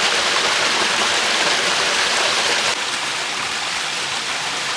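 Steady rush of a small mountain stream running over rocks, dropping slightly in level a little past halfway.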